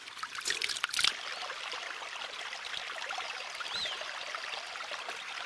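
Steady outdoor rushing noise, with a few clicks and knocks about half a second to a second in and one short chirp near the end.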